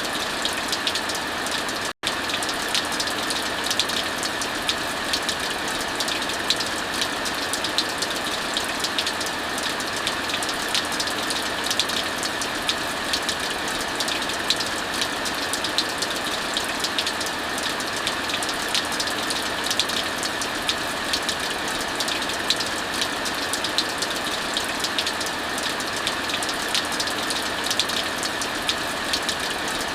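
Steady heavy rainfall with a wood fire crackling over it, frequent sharp snaps and pops on top of the even rush of rain. The sound cuts out for a split second about two seconds in.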